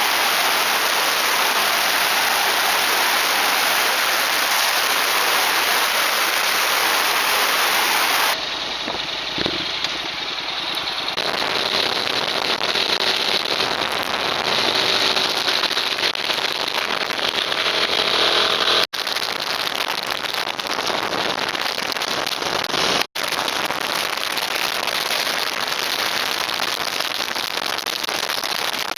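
Loud wind noise rushing over a Contour action camera's microphone, a steady hiss. Its sound changes abruptly about eight seconds in, and it cuts out twice for an instant later on.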